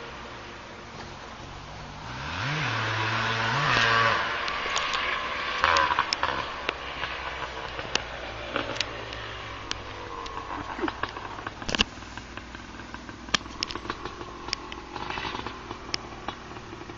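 Motocross dirt bike engine revving, rising in pitch twice a couple of seconds in, then dropping back to a lower distant drone. Scattered sharp clicks and knocks run through the rest.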